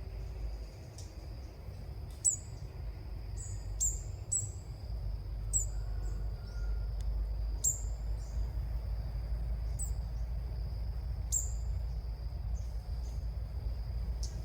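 Bird calls: short, sharp, high chirps, each sweeping downward, repeated every second or two over a steady high insect-like whine and a low rumble.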